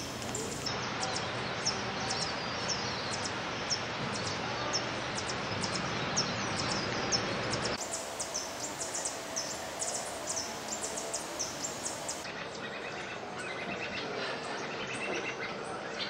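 Short, high-pitched bird chips repeated about once or twice a second over a steady background hiss. The hiss changes abruptly where the clips are cut together.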